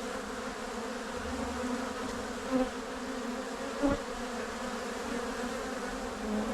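Honey bees buzzing steadily around an open hive during a frame inspection, with two brief louder swells about two and a half and four seconds in.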